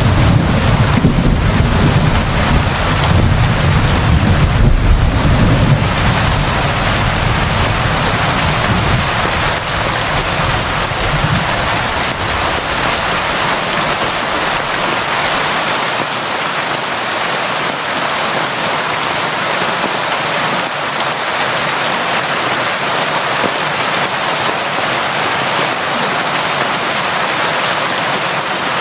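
Steady heavy rain, a dense even hiss. A low rolling rumble of thunder underneath it dies away about twelve seconds in, leaving only the rain.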